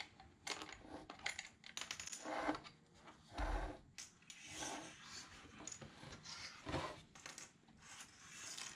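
Small metal and plastic parts and tools handled and set down on a workbench: irregular clicks, clinks and light clattering.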